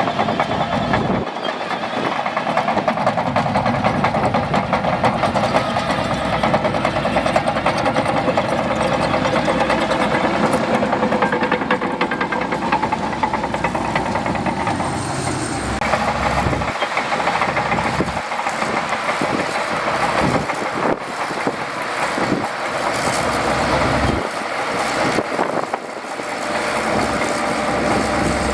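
Shantui DH17C2 bulldozer working, its diesel engine running steadily under load with a dense clatter, the sound shifting about halfway through.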